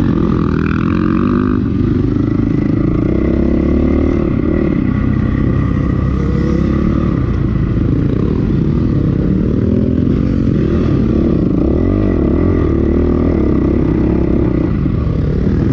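2008 Honda CRF450R's single-cylinder four-stroke engine revving up and down as the dirt bike is ridden, its pitch rising and falling with the throttle.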